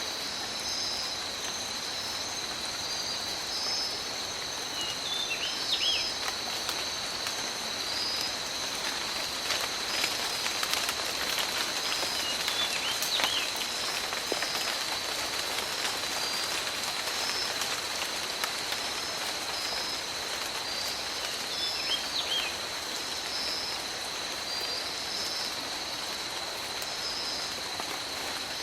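Steady rain falling in a tropical forest, a little heavier with denser drips in the middle. A continuous high-pitched drone with a pulsing chorus just above it runs through the rain, and a few short chirps come through now and then.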